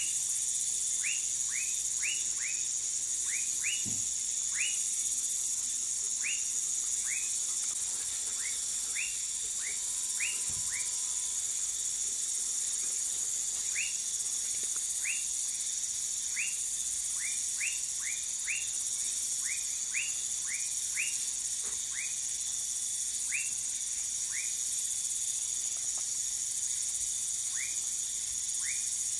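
Tropical night chorus: a steady, high-pitched insect drone, with short chirping frog calls repeated irregularly, about one or two a second.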